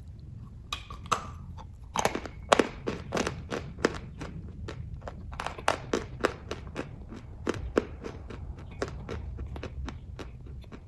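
Someone chewing kaju katli (cashew fudge): a run of sharp, irregular wet mouth clicks, several a second.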